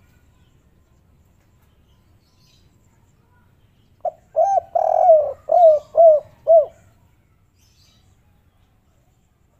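Spotted dove cooing: a quick run of about six short coos starting about four seconds in.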